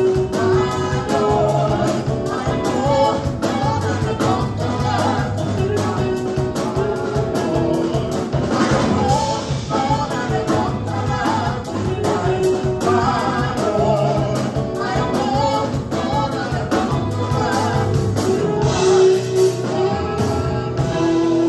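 Live gospel praise band and singers performing an upbeat worship song, with bass, keys and voices together; the low bass drops out near the end.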